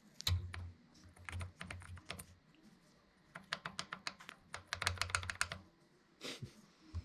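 Allen wrench being worked on the small pins that hold a motorcycle's top triple clamp, making rapid metal clicking in two runs of quick ticks with a short pause between.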